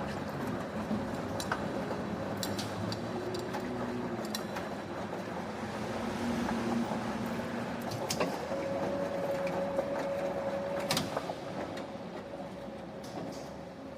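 Factory machinery running with a steady noisy hum, broken by a few sharp metallic clanks. A steady whine joins in for a few seconds past the middle.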